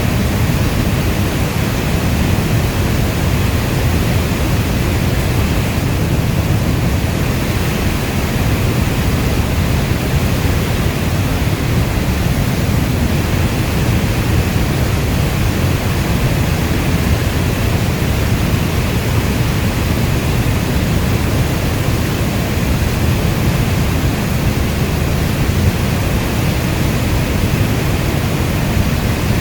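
Steady heavy rain, an even wash of noise weighted toward the low end, with no single drops or thunder standing out.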